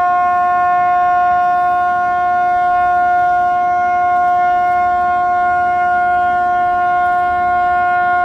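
A vehicle horn blaring continuously on one steady pitch, with no rise or fall.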